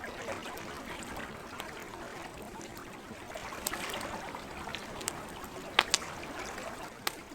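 Campfire crackling with a few sharp pops, the loudest two close together about six seconds in, over a steady wash of gentle lake water.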